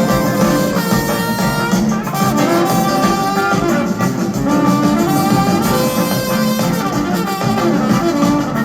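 Live band playing an instrumental passage, with a horn section holding lines over electric guitar and drums.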